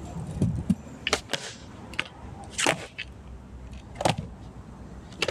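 A series of sharp cracks or clicks, about one every second and a half, over a low steady rumble.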